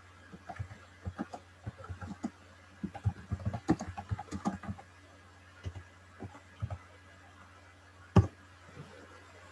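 Computer keyboard typing: a quick run of key clicks for about five seconds, then a few scattered keystrokes and one louder knock near the end, over a steady low hum.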